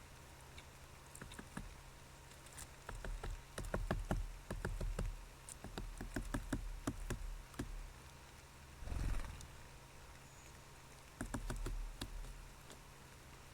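Bursts of clicking, tapping and scraping on the camera's body with low thumps, as a bird handles and moves the camera. There is a short whoosh about nine seconds in and another run of taps near the end.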